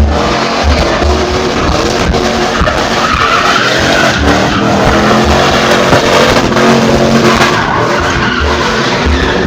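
Drift car's engine running hard with tyres skidding on the pavement, over music with a steady bass beat.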